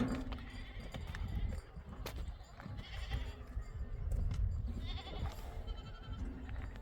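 Animals bleating a few times in short calls, over a steady low rumble.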